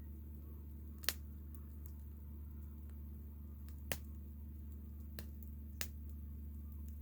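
Wood fire crackling: a few sharp, irregular pops over a low steady hum.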